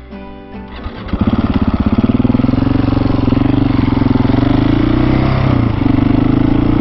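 Husqvarna 701 supermoto's single-cylinder engine, ticking over quietly at first, then pulling hard under throttle from about a second in as the bike gets going. The running level dips briefly a little past the middle, then picks up again.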